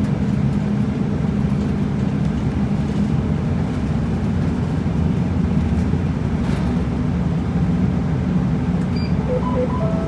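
Route bus engine and road noise, heard steadily from inside the cabin as the bus drives along, with a few short electronic beeps near the end.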